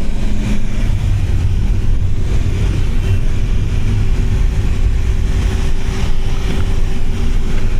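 Steady engine drone and rumble of a moving vehicle heard from inside its cabin, with a constant hum running underneath.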